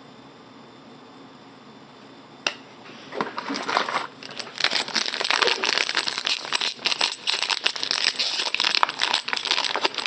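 Trading-card packaging crinkling and rustling as it is handled, a dense run of small crackles starting about three seconds in after a single click; before that only quiet room tone.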